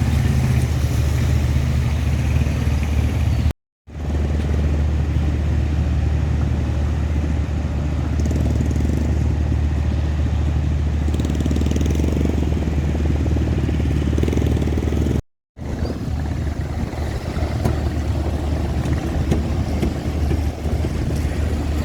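Motor vehicle engine running close by with a steady low hum, with traffic noise around it. The sound cuts out completely twice, briefly, at edits, about four seconds in and again about fifteen seconds in.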